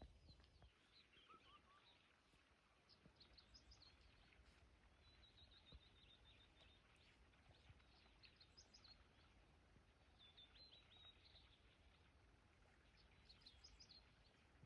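Faint birdsong over near silence: short high chirps and trills every second or two, including a longer even trill about five seconds in.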